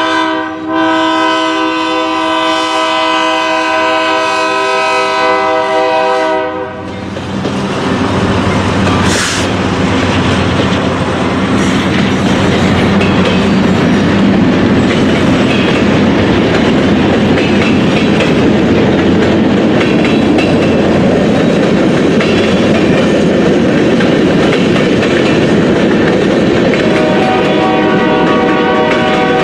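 Freight train locomotive's multi-chime air horn sounding a long chord, cutting off after about six seconds. A loud steady rumble and clatter of the train passing follows. The horn sounds again near the end.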